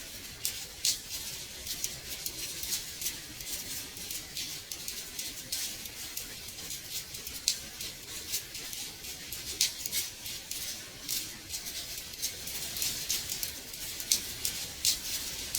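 Rain falling against window glass: a steady high hiss with many irregular, sharp taps of individual drops.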